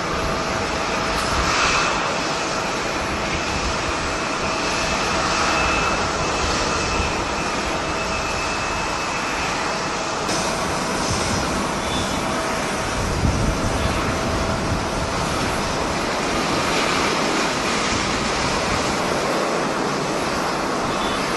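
Passenger jet's engines running as a steady rush, with a faint high whine held throughout.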